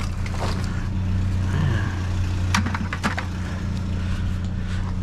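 A vehicle engine idling with a steady low hum. A couple of short clicks and rattles of items being handled come about two and a half and three seconds in.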